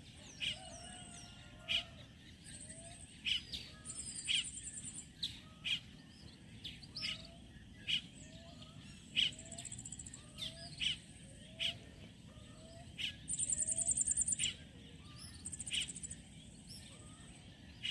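Birds calling: many short, sharp chirps, several high trills each lasting a second or two, and a faint short rising note repeating about once a second.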